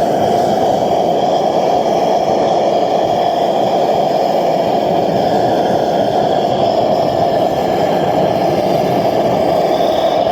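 Homemade propane forge with a weed-burner-type burner running, its gas flame making a loud, steady rushing noise that stays even throughout.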